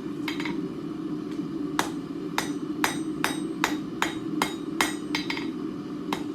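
Blacksmith's hammer striking a hot steel bar on an anvil, rounding off the tapered end: a couple of light taps, then from about two seconds in a steady run of sharp blows, about two and a half a second, over a constant low hum.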